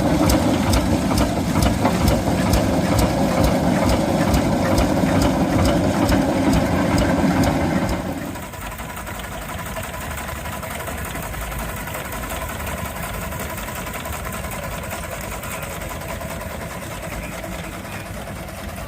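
Vintage stationary engine running with a regular beat. About eight seconds in the sound cuts to a quieter engine ticking over.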